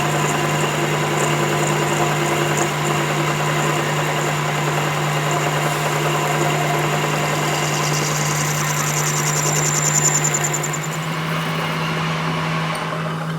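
Workshop machine running steadily, a constant low hum over dense mechanical noise. A fast, high-pitched rattle joins in about eight seconds in and dies away about three seconds later.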